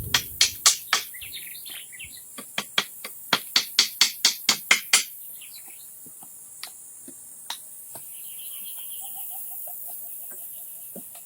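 A quick series of sharp knocks, about three a second for the first five seconds, like a hand tool striking wood. Insects buzz steadily throughout, and a bird gives a short warbling call near the end.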